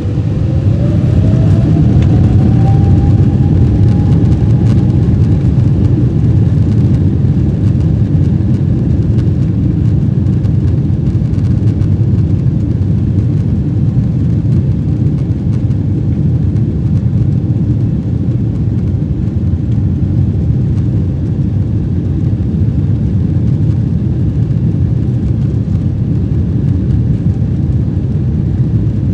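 Steady cabin roar of a Boeing 777-224 in flight, jet engine and airflow noise heavy in the low end. A faint whine rises in pitch over the first few seconds, then fades into the roar.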